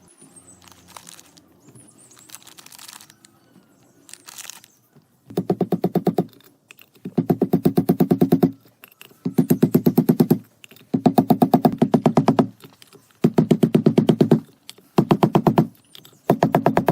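A power tool running in six short bursts of rapid, evenly spaced strokes, starting about five seconds in. Before the bursts there are faint scattered clicks and handling noises.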